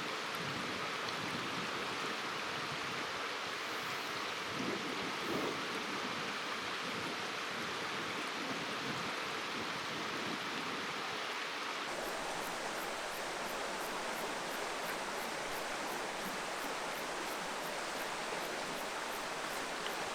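Steady rush of river water flowing over stones. The sound of the water changes abruptly about twelve seconds in, to a different stretch of current.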